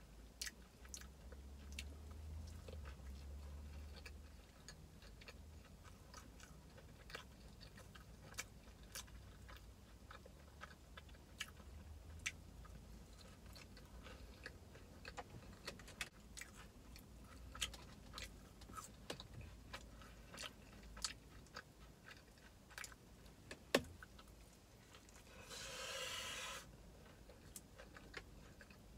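Faint chewing and crunching of a crispy fried chicken sandwich, with many small wet mouth clicks. A sharp crack a little before the end, then a brief pitched sound near the end.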